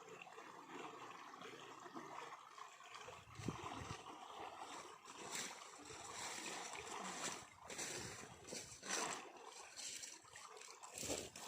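Faint water sounds: a steady trickle with irregular small splashes, which come more often from a few seconds in.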